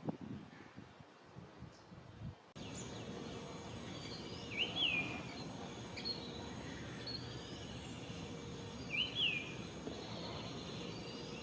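A bird calls twice, about four seconds apart, each a quick high rising-and-falling note, with a few fainter chirps between, over steady outdoor background hiss that starts abruptly a couple of seconds in.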